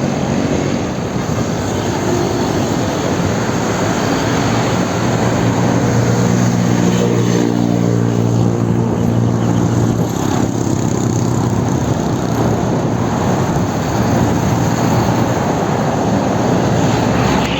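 Loud, steady wind rush on the microphone from riding a bicycle through traffic, with the drone of a nearby motor engine swelling in the middle.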